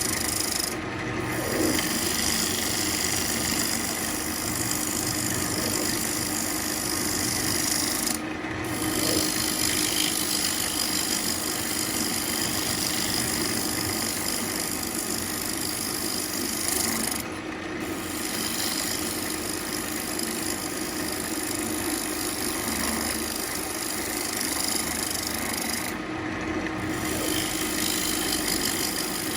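Wood lathe running with a carbide turning tool fitted with a round insert cutting a spinning ambrosia maple bowl blank: a steady scraping, shaving hiss over the lathe motor's hum. The cutting briefly lets up four times, about every nine seconds, as the tool comes off the wood.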